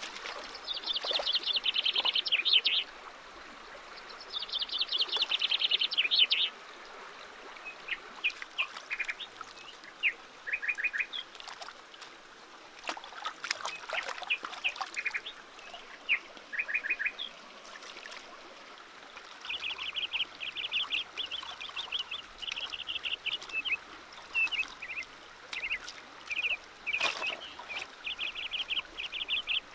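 A bird calling in rapid trilled bursts, two long runs near the start and then shorter, more frequent runs later, over running stream water and the occasional splash of hands washing fish and lemongrass in the water.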